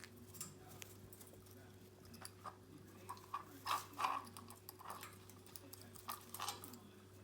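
Green-cheeked conure's beak tapping and clicking irregularly at a plastic foraging toy as it works for a snack, loudest about four seconds in.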